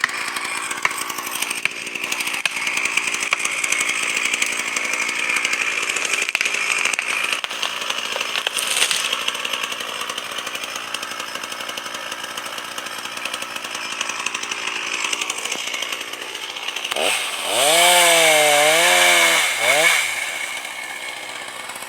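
Chainsaw running steadily, with a louder burst about 17 seconds in where the engine pitch rises and wavers for about three seconds before dropping back.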